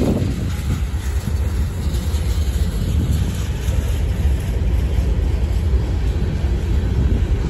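Freight train cars rolling past on the rails: a steady low rumble of steel wheels on track.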